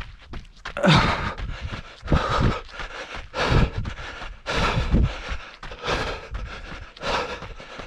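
A runner breathing hard close to the microphone, a loud breath about every second, in a steady rhythm.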